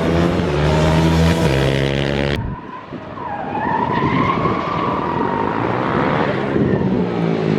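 A car's engine running with a steady note, then after an abrupt cut a car's tyres squealing in one long wavering squeal over engine and tyre noise. The engine note comes back near the end.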